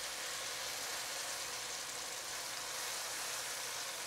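Halved figs sizzling steadily in hot oil in a nonstick wok, with sugar caramelizing in the pan.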